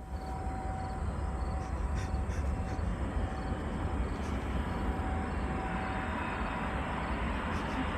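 Jet engine running steadily: a low rumble and hiss with a faint high whine that comes and goes.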